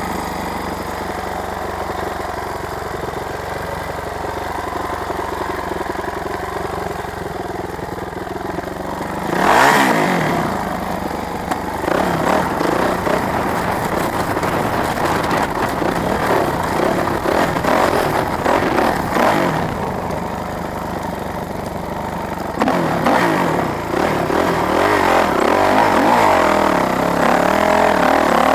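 Motorcycle engine running at a steady low note, then revving up sharply about a third of the way in and running hard under load, its pitch rising and falling.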